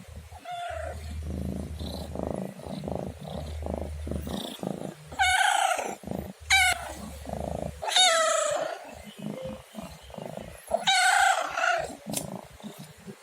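Domestic cat meowing four times, each a loud call that falls in pitch, the last the longest. A low purr runs under the first half and stops just after the second meow.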